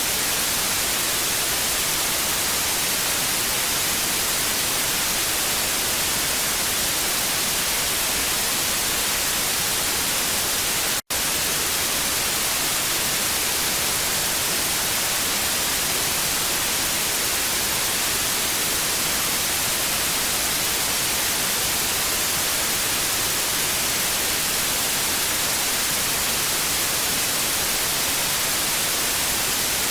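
Television static: a steady, even hiss, brightest in the high end. It cuts out for an instant about a third of the way in.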